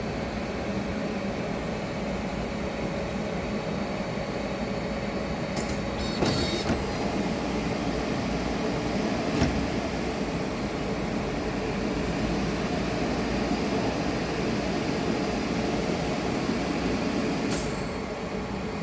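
Conveyor on a CNC lathe running, a steady mechanical hum with a few light clacks about six and nine seconds in. It grows a little louder about six seconds in and drops back near the end.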